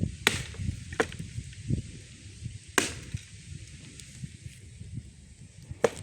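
Four sharp, irregularly spaced cracks of wood being chopped.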